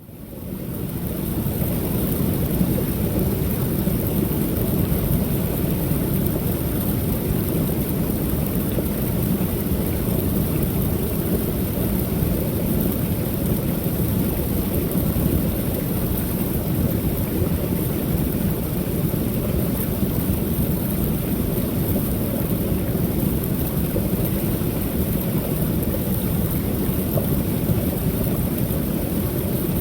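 Creek waterfall: water pouring over the falls in a steady low rush, fading in over the first second.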